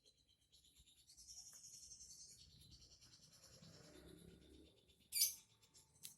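Caged songbird twittering softly in high, rapid chatter, with a short, loud, sharp call about five seconds in and a smaller one near the end.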